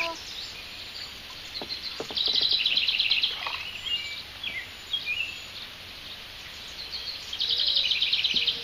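Songbirds singing: one bird gives a fast, buzzy trill twice, about five seconds apart, with other short chirps and slurred calls between.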